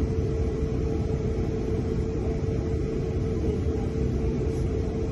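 Cabin noise inside a class 444 electric multiple unit running at speed: a steady low rumble of the wheels on the track, with a steady hum running under it.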